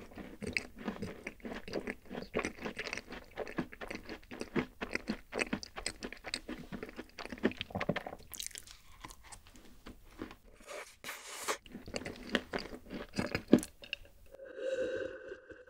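Close-miked crunching and chewing of a rice-oat cookie, a dense run of small crackles and clicks. Near the end the crunching stops and a long drink is taken from a glass, heard as a steady, even sound.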